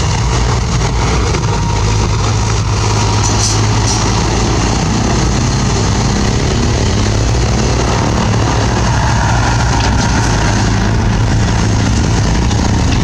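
Bulldozer's diesel engine running steadily, with an even low engine note.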